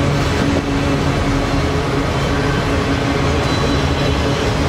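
Freight train autorack cars rolling past at steady speed: a continuous rumble of steel wheels on rail, with a faint steady tone running through it.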